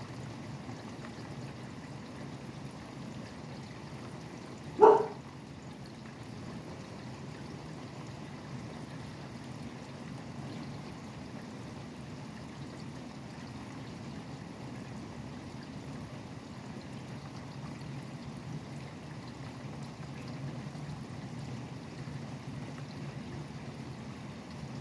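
Steady rain falling, over a low, even rumble of highway traffic. About five seconds in comes a single sharp, loud knock.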